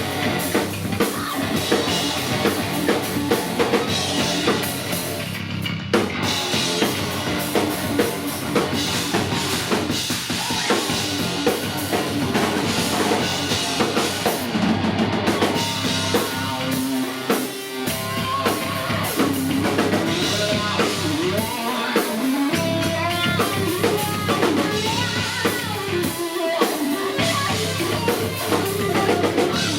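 Heavy metal band playing live: distorted electric guitars over a pounding drum kit with bass drum and snare, an instrumental passage without vocals.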